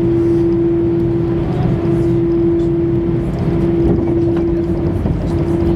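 Jet airliner's engines running, heard from inside the passenger cabin: a steady low rumble with one constant hum tone.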